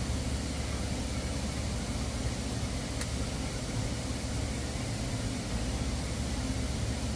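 Steady welding-arc hiss over a low machine hum during a root pass on stainless steel with 308 filler, with one brief click about three seconds in.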